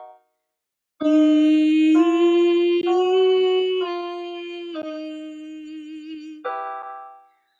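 A woman singing a vocal warm-up exercise on sustained vowels: after a second's pause she holds a long tone that steps up twice and comes back down, three notes of a minor pattern, with the vowel shifting between them. A short note fades out near the end.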